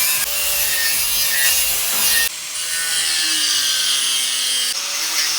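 Abrasive power tool grinding the aluminium of a wheel rim: a loud, harsh rasping that changes abruptly a few times, with a faint whine that slides in pitch.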